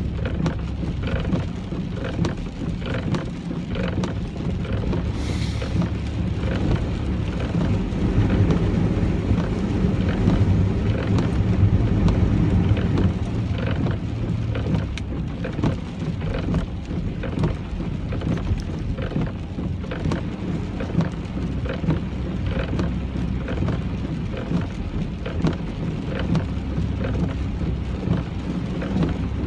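A car driving in the rain: a steady low road-and-engine rumble with rain pattering and ticking on the car. It grows somewhat louder for a few seconds partway through.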